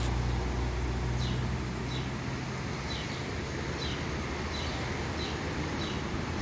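Outdoor background noise with a low hum that fades over the first two seconds, and a bird chirping over and over in short, high, falling notes.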